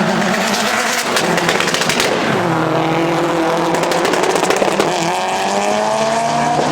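Performance car engine running hard at high revs. Its pitch drops about two seconds in, then climbs steadily from about five seconds in as the car accelerates.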